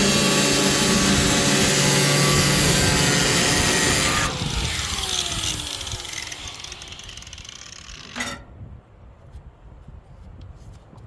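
A handheld power cutoff tool cutting truck-bed sheet metal, loud and steady. About four seconds in it is released and winds down with a falling whine, then a single sharp clank about eight seconds in.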